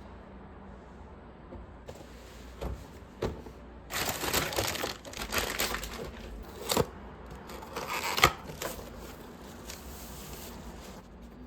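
Packaging crinkling and rustling as it is handled and unwrapped, in irregular bursts with a sharp click about eight seconds in.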